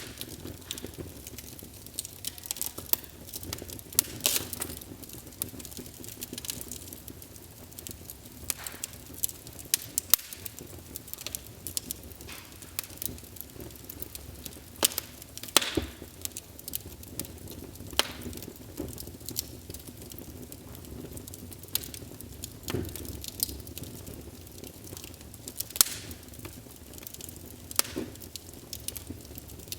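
Wood fire burning in a fireplace, crackling with irregular sharp pops and snaps over a low, steady rush of flame.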